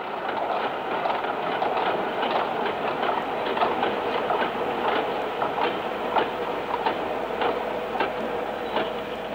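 Steam-hauled train running along the track: a steady running noise with a quick, irregular clatter of wheels over rail joints and a faint steady whine.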